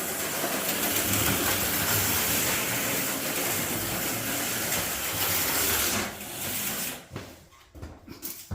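HO-scale slot cars running laps, a steady buzzing whir of their small electric motors and pickup shoes on the track rails. The whir drops away about six seconds in, leaving a few faint clicks.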